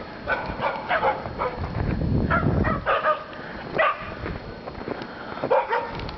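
Shetland sheepdogs barking in a quick, repeated series of short barks, worked up by a "get the squirrel" game.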